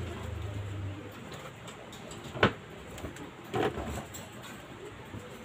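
Birds calling, with a sharp knock about halfway through.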